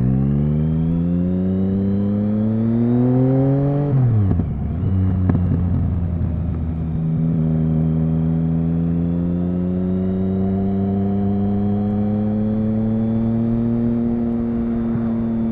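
Triumph Speed Triple 1050's three-cylinder engine accelerating hard, its pitch climbing for about four seconds. The revs then drop sharply at a gear change, with a short crackle. After that it runs at a steady, slowly rising speed.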